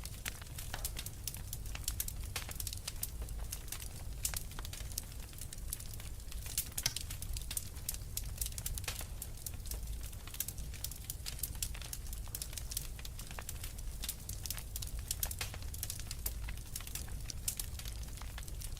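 Wood fire crackling in a fireplace: dense, irregular sharp pops and snaps from burning logs over a steady low rumble of the flames.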